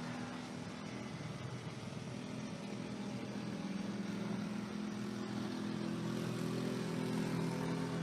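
An engine running steadily, its hum growing somewhat louder over the second half.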